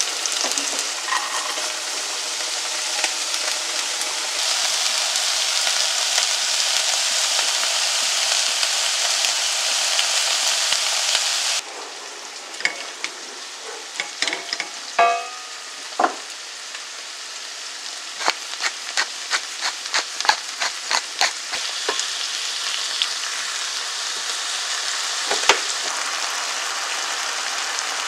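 Minced garlic and dried chillies sizzling in hot oil in a nonstick wok, the sizzle growing louder a few seconds in. After a sudden drop, minced pork and vegetables fry more quietly while a spatula scrapes and taps against the pan in quick strokes, then the steady sizzle settles again.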